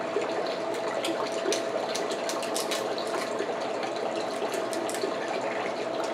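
Close-up eating of king crab legs: scattered sharp clicks and cracks of the shell with wet sucking and chewing, over a steady background hiss with a faint hum.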